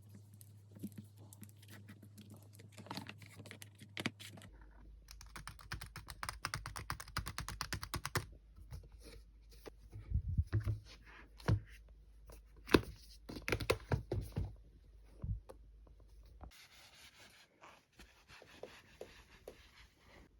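Typing on a keyboard: runs of quick key clicks with a few louder taps, in short stretches that change abruptly several times.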